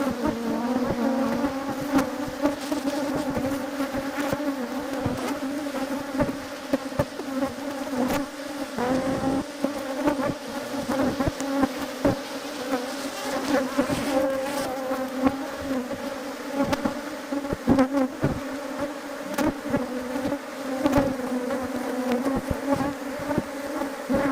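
Many honeybees buzzing together in a steady, even hum, with frequent light taps and knocks over it.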